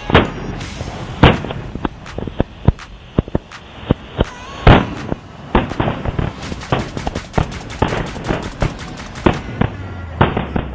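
A 50-shot two-sound sky shot firework battery firing: an irregular string of sharp pops and bangs, the loudest near the start and about four and a half seconds in, with a quick run of cracks from about six to nine seconds in.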